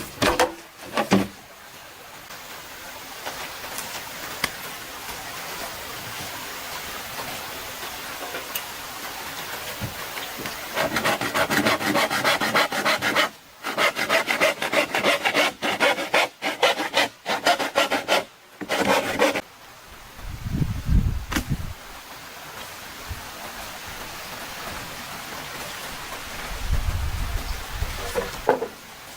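A hand saw cutting through bamboo in rapid back-and-forth strokes, starting about a third of the way in and lasting some eight seconds with a short break. Before it there is a steady rushing hiss, and after it come two dull low thumps.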